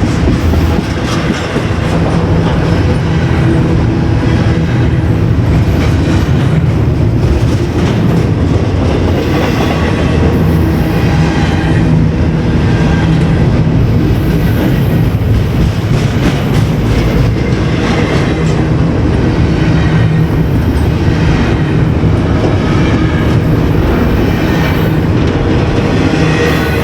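Railroad cars of a train rolling past close by: a steady, loud rumble with the clack of wheels over rail joints and faint wheel squeal recurring every second or two.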